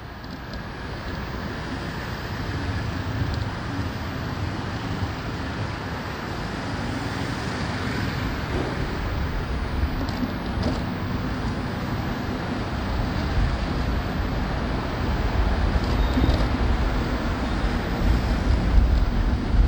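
Riding on a motorbike through city traffic: wind buffeting the microphone over the steady hum of the engine and surrounding road noise, the low rumble growing louder toward the end.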